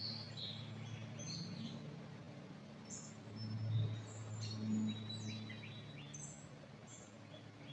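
Several small songbirds chirping and twittering in a pine forest, many short high calls overlapping, over a low steady hum.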